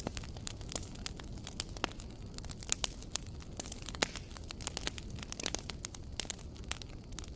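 Wood fire crackling: many irregular sharp pops and snaps over a soft steady rumble of flame.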